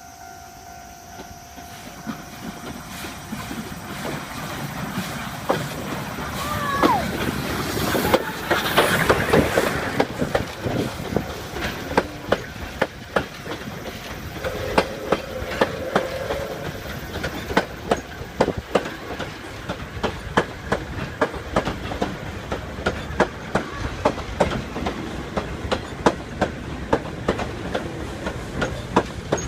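Oigawa Railway's Thomas-liveried steam train approaching and passing. The noise builds to a peak about eight to ten seconds in as the locomotive goes by, then a long run of clickety-clack from the wheels crossing rail joints as the coaches roll past.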